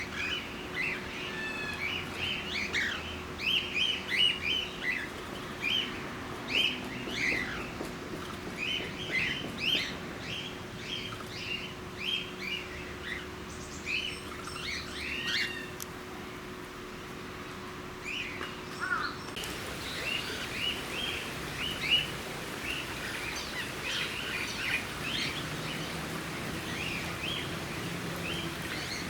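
Cockatiels chirping: a busy run of many short, repeated calls with some quick rising and falling whistles, often overlapping. A faint steady hum lies underneath and stops about two-thirds of the way through.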